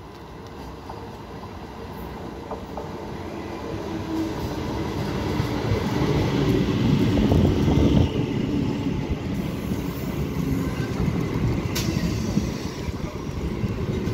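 Old Indian Railways EMU local train approaching and running in alongside the platform. Its rumble and the clatter of its wheels grow steadily louder to a peak about eight seconds in, then ease off a little as the coaches pass.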